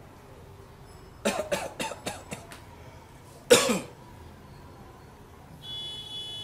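A man coughing on cigarette smoke: a quick run of about six short coughs, then one harder cough a second later. Near the end a steady high-pitched tone starts.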